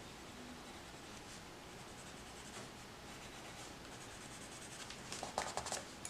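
Coloured pencil rubbing on paper in short strokes while blending colour, faint and steady, with a quicker, louder run of strokes about five seconds in.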